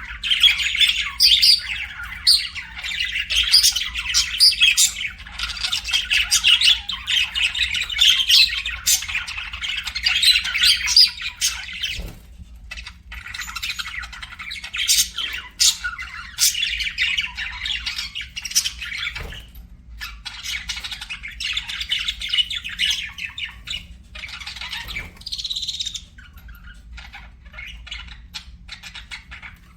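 Budgerigars chattering and warbling in a rapid, continuous stream of chirps and squawks, with brief pauses about twelve and nineteen seconds in. Near the end the song thins out to scattered ticks and clicks.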